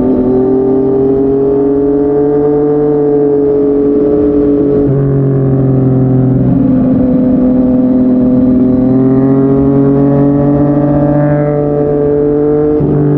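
Yamaha MT-09's inline three-cylinder engine through a Yoshimura R55 slip-on exhaust, pulling steadily under way with the note rising and falling. Its pitch breaks briefly about five and six and a half seconds in and again near the end, as at gear changes.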